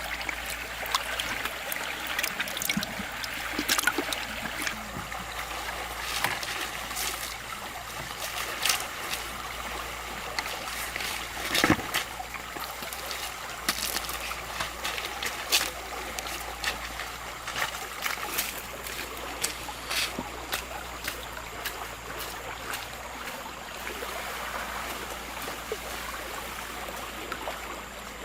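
Fast stream water running steadily, with many short splashes and knocks scattered through it.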